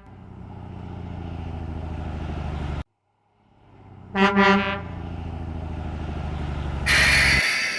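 Garbage truck sounds: an engine runs steadily and grows a little louder, then stops suddenly. After a pause a horn gives a quick double honk and the engine runs again, ending with a short burst of hiss near the end.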